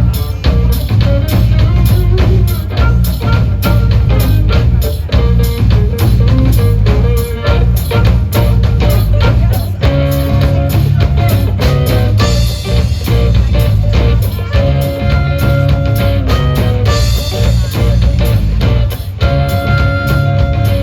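Live blues band playing an instrumental break without vocals: drum kit keeping a steady beat under bass and electric guitar. About halfway through, a lead line of held notes comes in over the rhythm.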